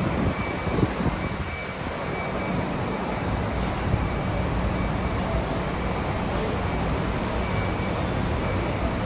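Scania K410 coach's diesel engine running with a steady low rumble, amid road traffic noise.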